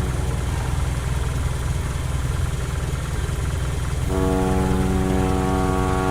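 Boat engine running steadily with a low rumble. About four seconds in, a steady pitched drone joins it and holds.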